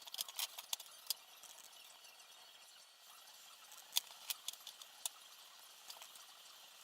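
Light, sharp clicks and taps of small hard parts and tools being handled during quadcopter assembly. One cluster falls in the first second and another about four to five seconds in.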